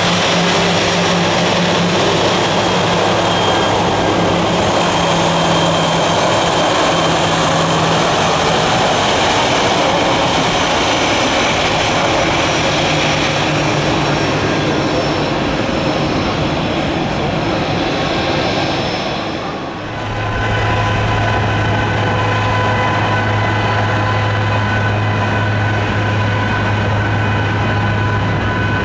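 Airbus A320 jet engines running as the airliner taxis close by: a loud, steady rushing noise with a whine. About twenty seconds in it switches abruptly to a second airliner, an Airbus A321, whose engines give a steady low hum with constant high whining tones.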